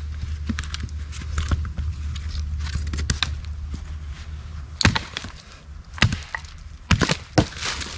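Wood being chopped with a blade: small crackles and clicks of wood, then four sharp blows in the second half, about a second apart, the last two close together.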